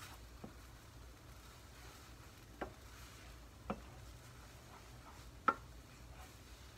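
A utensil clicking against a frying pan as food is stirred: four light, separate clicks, the loudest about five and a half seconds in, over a faint low hum.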